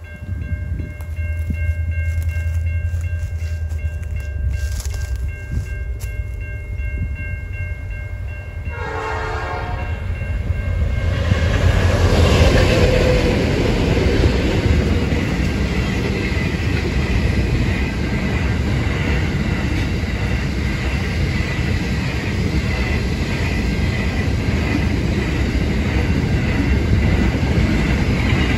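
Pacific National grain train's diesel-electric locomotives approach with a steady low engine rumble. Their horn sounds about nine seconds in, falling in pitch as they pass. The empty grain hopper wagons then roll by with continuous wheel-on-rail noise.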